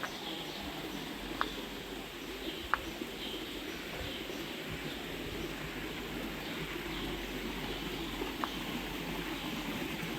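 Steady rush of a flowing stream, with a few faint bird chirps and three or four sharp ticks.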